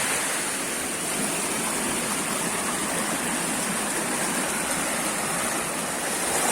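Jungle waterfall rushing steadily into its pool, an even wash of falling water with a steady high hiss over it.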